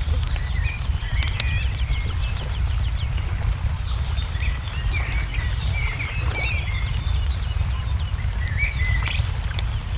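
Small birds chirping and trilling on and off, over the sharp pops and snaps of a crackling wood fire and a steady low rumble.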